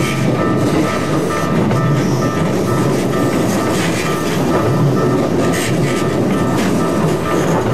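A Keikyu train passing close by at a level crossing: steady wheel-and-rail running noise with the clack of wheels over the rail joints. Over it, the level-crossing bell rings in a steady repeating tone.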